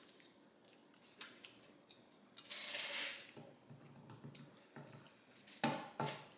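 Faint close-miked chewing of a Parmesan fry, with small mouth clicks, a short breathy hiss about two and a half seconds in, and two sharper thumps near the end.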